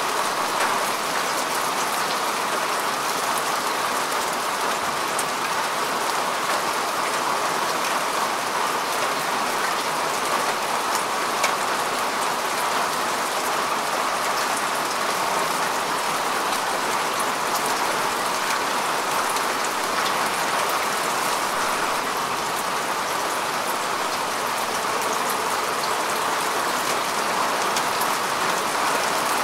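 Steady rain falling on earth and grass, an even hiss with scattered drop ticks.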